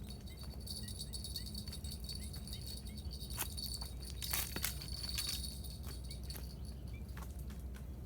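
Quiet outdoor morning ambience by the water: a steady high-pitched buzz over a low rumble, with small chirps now and then. A brief burst of light metallic jingling and clicks comes about four seconds in.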